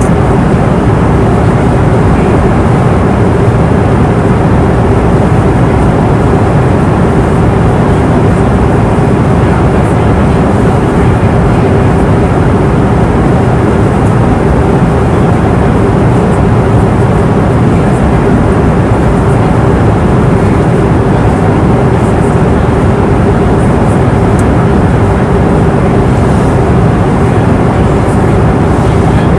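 Airliner cabin noise in cruise: a loud, steady rush of engine and airflow noise, mostly low, with a steady hum near 400 Hz.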